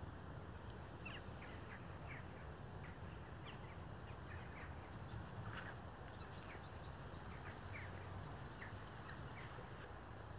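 Small birds chirping intermittently with short, high calls, over a faint, steady low rumble.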